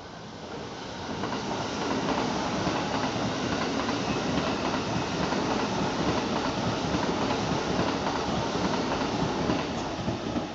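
Kintetsu 80000 series 'Hinotori' limited-express electric train running past, its sound building over the first couple of seconds as it approaches, then the steady rumble of wheels on rails, easing a little near the end.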